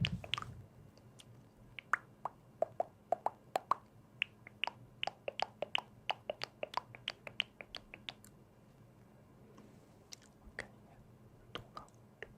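A quick, irregular run of small sharp clicks and taps close to the microphone, dense for several seconds and then thinning out after about eight seconds.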